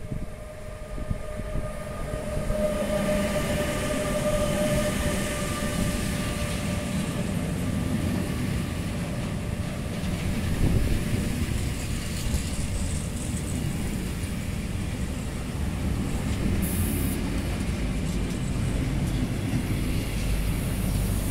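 An electric locomotive and a long intermodal freight train of pocket wagons carrying lorry trailers roll past close by, with steady low wheel rumble on the rails. A faint steady whine runs through the first several seconds, and the rumble grows louder as the wagons come alongside.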